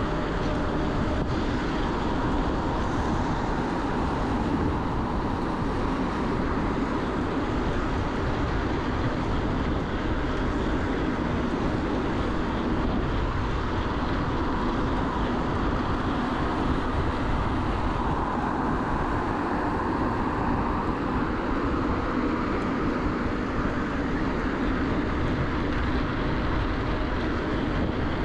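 Steady wind rush and road noise from an electric mountain bike ridden fast along a busy main road, with no sudden events. A faint steady hum sits under the rush.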